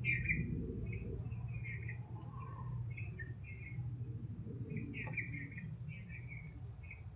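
Small birds chirping in short bursts of calls that recur every second or so, over a steady low hum and a constant high-pitched hiss.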